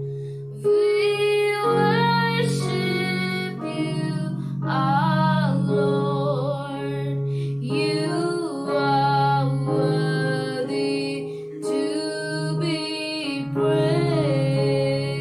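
Worship music: a woman singing a slow song over steady held instrumental chords.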